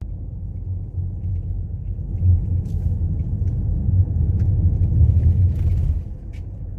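Steady low rumble of a car's road and engine noise heard from inside the cabin while driving, with a few faint ticks.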